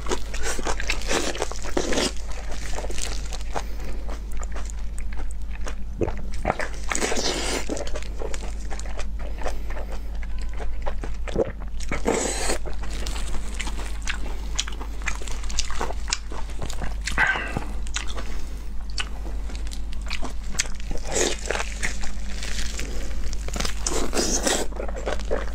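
Close-miked eating of sauce-glazed braised meat: wet chewing and biting with irregular crunches, over a steady low hum.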